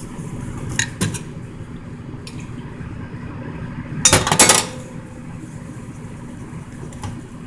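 A utensil clinking and scraping against a mixing bowl while milk powder, egg and water are stirred into a smooth custard base. There are a few light clicks, then a louder flurry of clinks about four seconds in, over a steady low hum.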